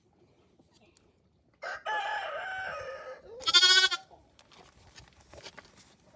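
Two animal calls: a wavering call about a second and a half long, then a short, loud bleat. The bleat is a newborn ram lamb crying out as a rubber ring is put on its tail for docking.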